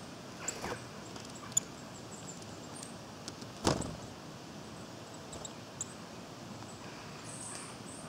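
Woodland ambience: a steady background hiss with short, thin, high bird calls scattered through it, and one sharp knock a little before the halfway point.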